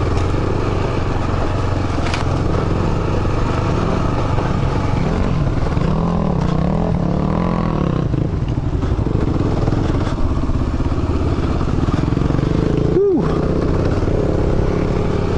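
Kawasaki KLR 650 single-cylinder four-stroke engine running on a dirt trail, the revs rising and falling several times as the rider works the throttle. The sound cuts out briefly near the end.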